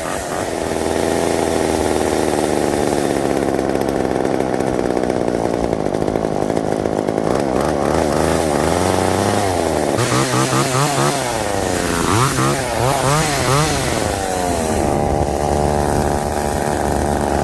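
Small vintage two-stroke chainsaw engine running, with its carburetor just cleaned of gummy residue and its clogged fuel lines flushed. It runs steadily, is revved up and down several times in the middle, then settles back to a steady run.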